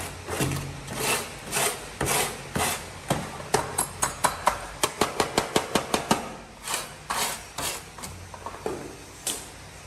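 A hand tool working on an old microwave in a run of short strokes. It goes about two strokes a second, quickens to about five a second in the middle, then slows and stops near the end.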